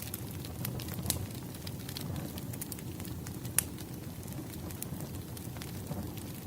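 Wood fire burning: logs crackling and popping irregularly over a steady low rumble of flame. One sharp pop about three and a half seconds in is the loudest.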